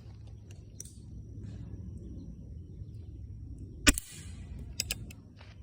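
A single rifle shot about four seconds in, a sharp crack with a short echo, followed by two quick clicks, over a steady low background rumble.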